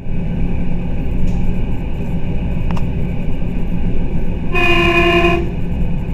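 Steady low rumble of a running vehicle, with one horn blast of just under a second about four and a half seconds in.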